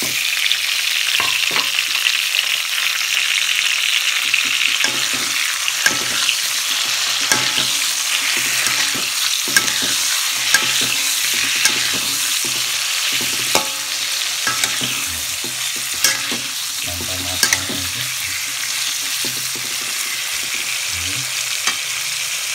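Tomato wedges sizzling as they fry in hot oil in a metal wok, with a metal spatula scraping and clicking against the pan as they are stirred. The sizzle starts loud as soon as the tomatoes go into the oil and eases a little in the second half.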